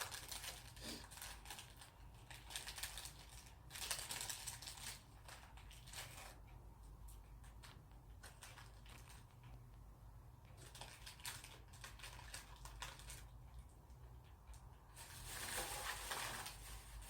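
Plastic wrapping of a packaged convenience-store sandwich crinkling and rustling as it is handled and opened. The sound comes in several bursts of a few seconds each, with quieter pauses between them.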